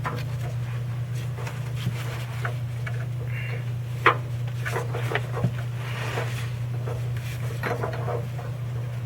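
Hand tools and parts clicking and knocking now and then, the sharpest click about four seconds in, over a steady low hum.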